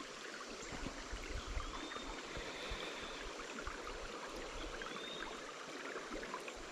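Creek water running and trickling in a steady, gurgling wash, with a few faint high chirps over it.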